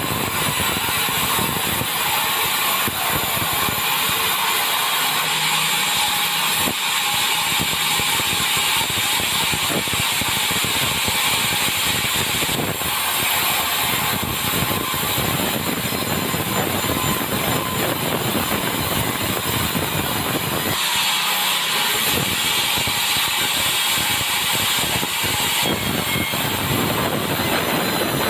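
Sawmill running, its saw cutting through timber with a steady loud mechanical rasp. The cutting noise sharpens for a few seconds about two-thirds of the way in.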